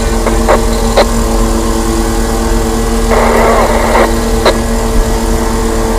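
Engine of a Proton Perdana car with a 4-3-1 exhaust header, running steadily with a constant hum and low rumble. A few short clicks sound, and a brief burst of hiss comes about three seconds in.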